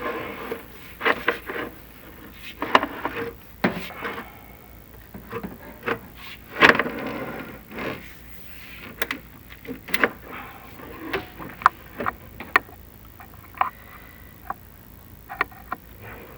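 Chimney inspection camera and its push rods scraping and knocking against the walls of the flue as the camera is fed down it: irregular knocks and short scrapes throughout.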